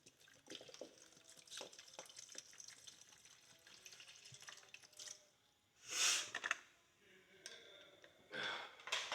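Bleach being poured into a plastic cleaning tray: faint trickling and dripping with small handling clicks, then a louder splashing rush about six seconds in and another shortly before the end.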